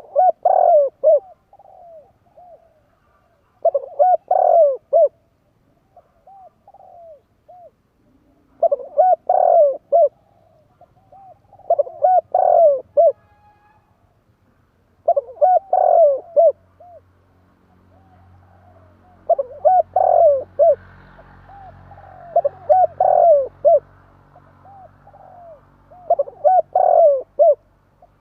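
Spotted dove (tekukur) cooing: a loud phrase of several low coos repeated every three to four seconds, about eight times, with fainter coos in between.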